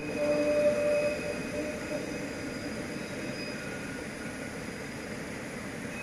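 D19E diesel-electric locomotive hauling a container train, heard from a distance as a steady low rumble of engine and wagons. It is louder in the first second or so, with faint steady tones that fade by about two seconds in.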